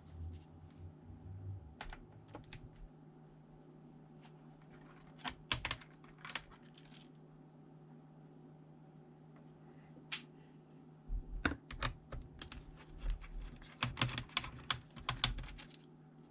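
Light clicks and taps on a ThinkPad T400 laptop, coming in scattered clusters and busiest in the last five seconds, over a steady low hum.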